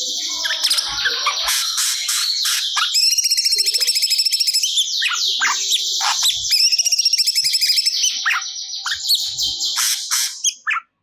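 Cucak cungkok singing in full voice: rapid, dense high chirps and trilled phrases strung together from copied material of other birds' songs. It stops suddenly near the end.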